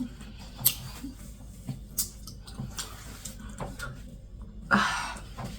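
Close-miked chewing with wet mouth clicks and lip smacks, a few sharp smacks a second apart, then a louder breathy, rushing sound close to the end.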